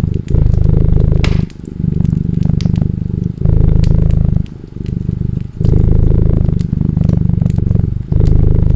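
A cat purring close up: a loud low rumble that pauses briefly every second or two between breaths. Over it, a wood fire crackles with scattered sharp pops.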